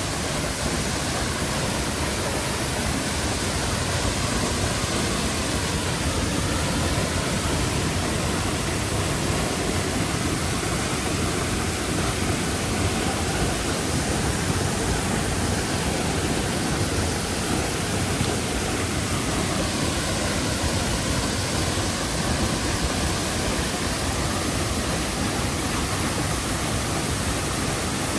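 Waterfall: water falling and crashing, a loud, steady rushing noise that stays even throughout.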